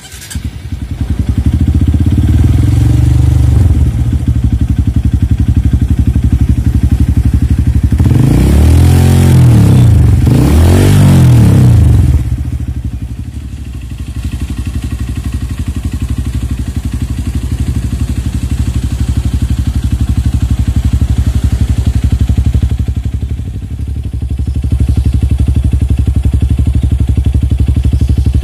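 Honda CRF150L's single-cylinder four-stroke engine running through a Norifumi Torc aftermarket exhaust. It idles with a rev around two to four seconds in, then two quick revs that rise and fall between about eight and twelve seconds, then settles back to a steady idle.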